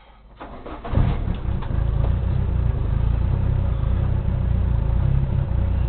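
Car engine running at idle, a loud, steady low rumble heard inside the cabin. It comes in about a second in, after a few clicks.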